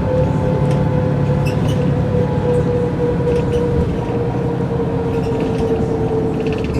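Mercedes-Benz O405 N² city bus with Voith automatic gearbox driving at speed: steady engine and running noise with a clear whine that drops slightly in pitch.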